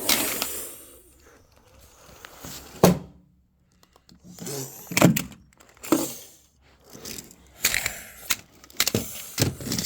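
Small hard toy cars clattering and knocking together as they are handled, a run of irregular sharp clicks and knocks with a few louder thuds.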